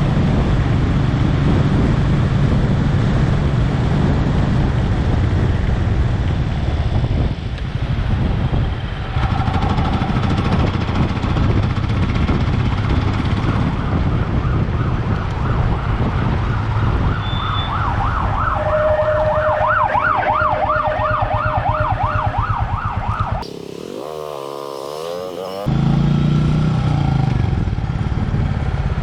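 Steady low road-and-engine rumble of a moving car, with an emergency vehicle siren warbling rapidly, faint at first and growing louder before it cuts off about two-thirds of the way in.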